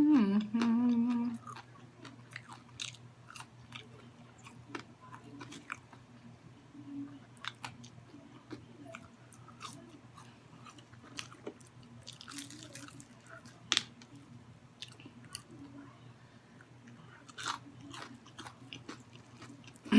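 Close-up chewing and biting of fried chicken: scattered wet mouth clicks and small crunches. A short hummed vocal sound is heard at the start.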